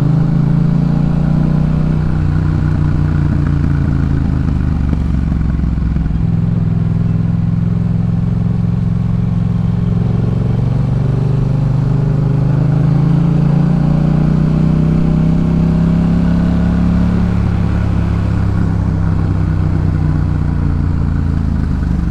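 Yamaha MT-07's parallel-twin engine through a Jeskap K4 full exhaust system, riding under way. The engine note climbs for several seconds in the middle as it pulls, then eases off near the end.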